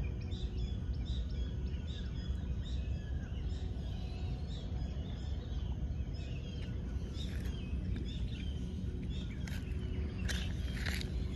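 Birds chirping: a short call repeated about twice a second over a steady low rumble, with a few sharper, louder calls near the end.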